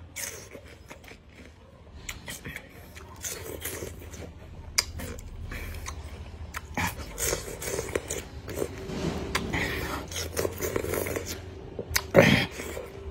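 A man biting into and chewing a raw bilimbi (iba) fruit up close: irregular crunches and wet mouth clicks, with some low mumbling, and a louder mouth noise near the end.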